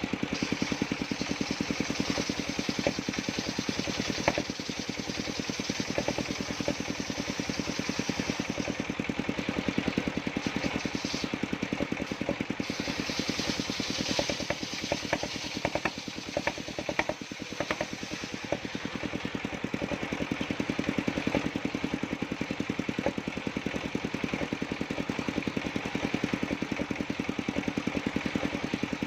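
Engine powering a circular sawmill, running steadily with a rapid, even pulse. A high hiss rides over it for about the first twelve seconds, and a cluster of knocks comes around the middle.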